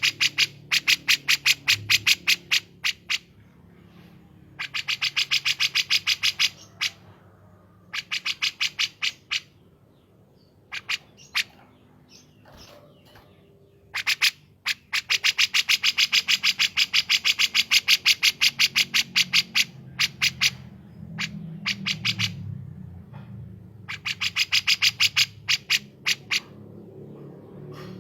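Bulbul song from a masteran recording mixing kapas tembak and cucak jenggot: rapid trains of sharp, evenly spaced notes, about ten a second, in bursts of one to three seconds, repeated several times with short pauses between.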